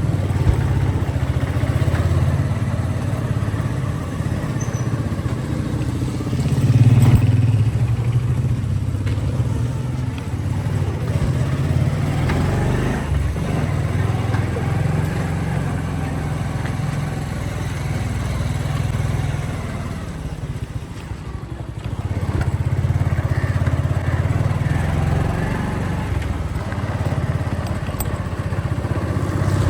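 Motorcycle engine running as the bike is ridden, its level rising and falling with the throttle, briefly louder about seven seconds in and easing off for a moment about two-thirds of the way through.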